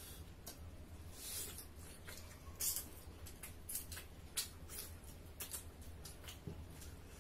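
Close-up eating sounds of people chewing and smacking their lips over a meal of rice and chicken eaten by hand: irregular wet clicks and smacks, the loudest about two and a half seconds in, over a steady low hum.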